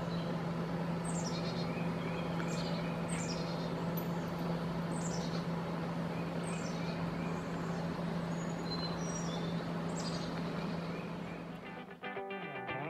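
A songbird repeating a short, high whistled note that slides downward, roughly once a second, over a steady low hum. Guitar music comes in near the end.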